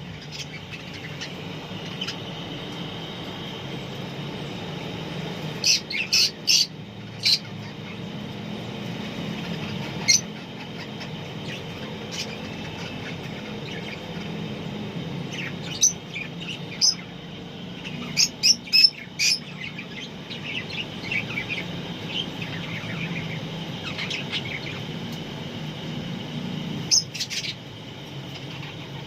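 Lovebirds chirping: loud, sharp, shrill chirps come in quick clusters of three to five several times, over steady softer twittering. A low steady hum runs underneath.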